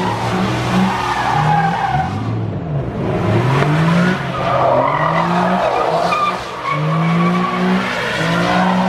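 Ford Mustang's engine revving hard, its pitch climbing and dropping several times, while its tyres spin and squeal in a burnout.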